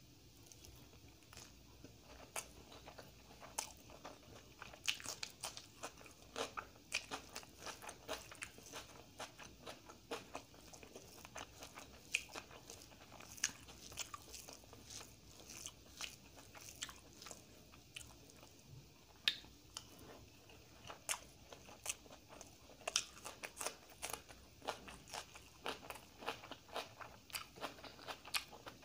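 A person chewing a mouthful of rice, dal and fried egg close to the microphone: a dense run of sharp mouth clicks that starts about a second in and keeps going.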